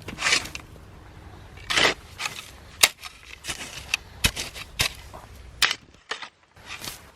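A run of short scrapes and sharp knocks, about a dozen, irregularly spaced over several seconds.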